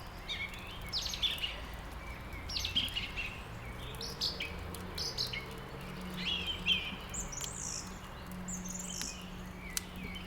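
Several songbirds chirping and singing in short, repeated phrases, with a few sharp faint clicks scattered through.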